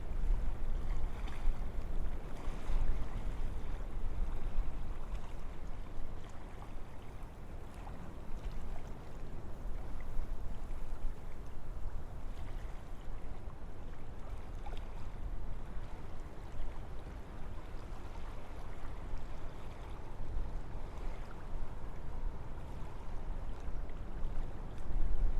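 Wind blowing through forest trees: a steady rushing with a deep low rumble, swelling and easing in slow gusts.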